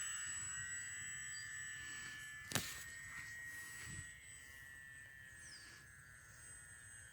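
High, steady whine of an RC model plane's electric motor and propeller, fading as the plane flies away after takeoff. A sharp click about two and a half seconds in.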